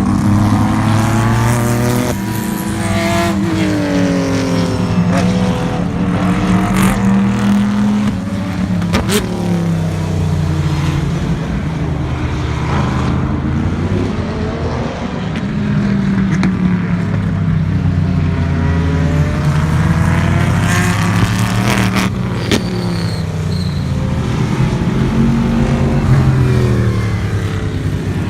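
Race cars passing at speed, several engines at once. Their pitch climbs through the gears and drops sharply as each car goes by and brakes or downshifts. Two sharp cracks stand out, about a third of the way in and again near three-quarters.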